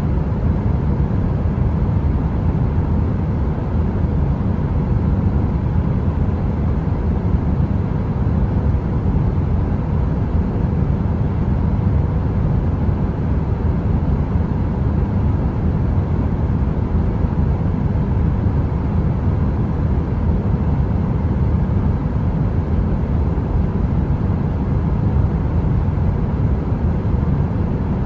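A heater running: a steady, deep noise heaviest in the bass, with a faint hum over it and no crackling.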